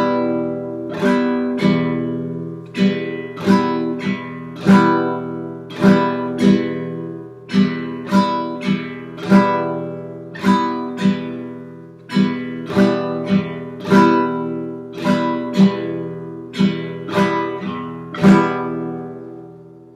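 Acoustic guitar strummed on one held chord, an E minor, in the campfire rhythm: down, down-up, a missed downstroke, then up-down-up, repeated at a slow, even pace. The last strum near the end rings out.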